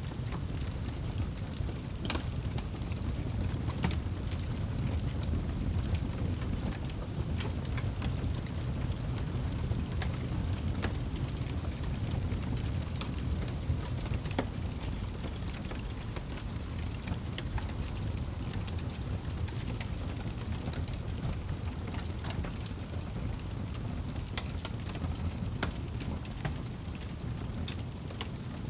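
Fire burning in a fireplace: a steady low rumble of flames with many scattered, irregular crackles and pops.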